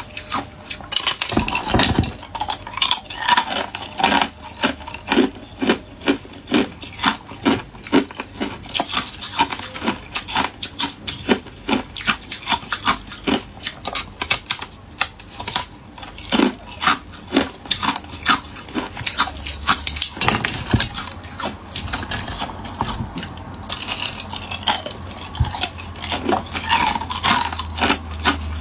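Hard ice cubes being bitten and chewed close to the microphone: sharp, crackling crunches, a few a second, without a break.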